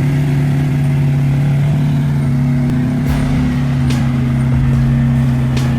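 A truck engine running at a steady pitch, with a few brief sharp clicks or knocks over it.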